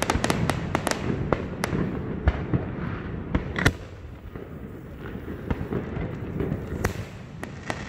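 Aerial fireworks bursting: irregular sharp bangs and pops, coming thick and fast in the first couple of seconds and sparser after, the loudest bang about three and a half seconds in.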